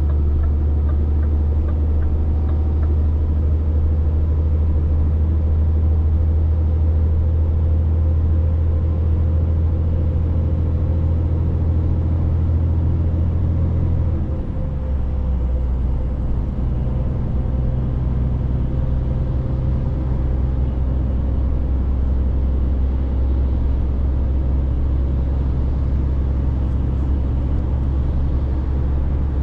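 Scania 500 S truck's diesel engine running steadily under way. About halfway through, its note drops lower with a brief dip in loudness, as with a gear change or easing off the throttle.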